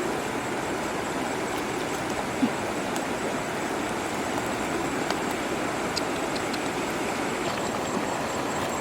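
Steady rushing noise of water, with a few faint clicks.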